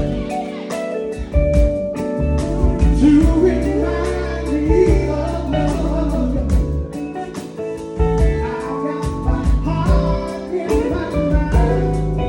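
A band playing a song, with a singing voice and guitar over a steady beat.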